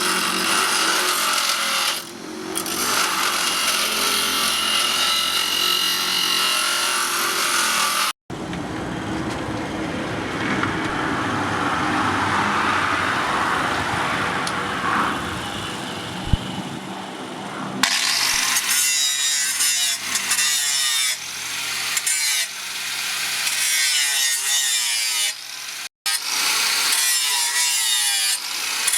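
Steel from a truck leaf spring being cut and shaped by hand or power tools: continuous rasping, scraping noise that breaks off abruptly twice between edited takes. The later part has repeated, even strokes.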